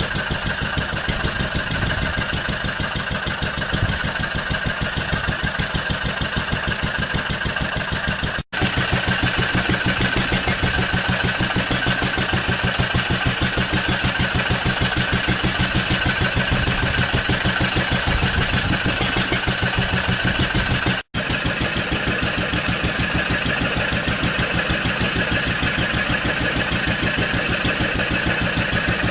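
Small piston air compressors running, a rapid steady chugging pulse. It cuts out abruptly twice and resumes with a slightly different tone each time, three compressors heard in turn.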